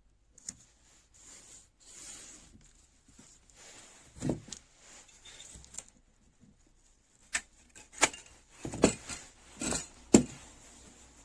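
Handling and workbench sounds: soft rubbing and scraping, broken by about six sharp knocks, most of them in the second half and the loudest near the end.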